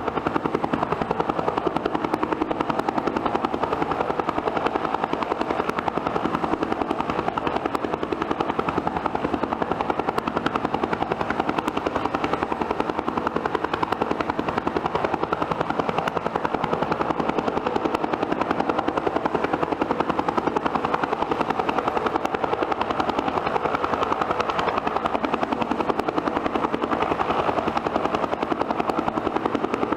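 Bell helicopter's turbine engines and rotor running at a steady speed, with a rapid, even rotor beat over a steady turbine tone.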